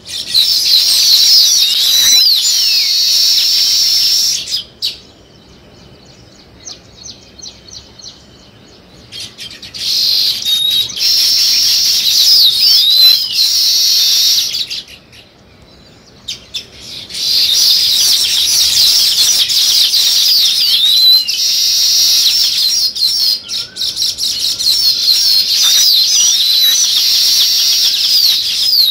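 A flock of small songbirds chirping together in a dense, high-pitched chatter of many overlapping calls. The chatter drops away twice for a few seconds, about five seconds in and again around the middle.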